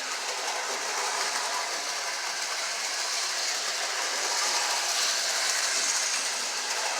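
Lionel O gauge 'The General' 4-4-0 toy steam locomotive and tender running in reverse on the track: a steady whir of its electric motor and gearing with the wheels running over the rails, growing a little louder past the middle.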